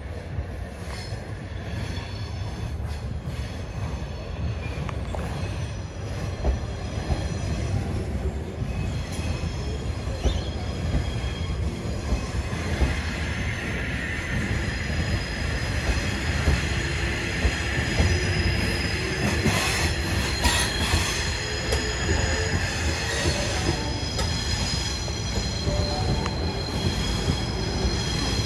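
Sydney Trains H set (Oscar) double-deck electric train running past and along the platform, its wheels squealing with several steady high tones over a continuous rumble; it gets louder about halfway through as the carriages pass close by.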